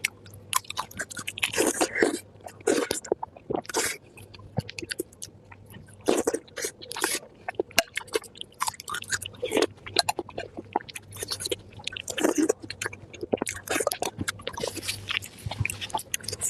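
Close-miked chewing and mouth smacking as soft pig brain in chili oil is eaten, with irregular clicks and smacks throughout.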